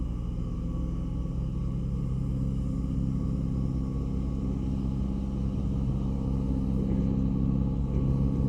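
Ferry's engines running with a steady low drone and rumble as it comes into port, growing slightly louder near the end.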